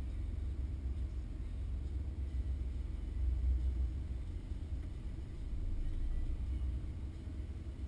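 Porsche engine idling, heard from inside the cabin as a steady low muffled rumble that swells a little twice.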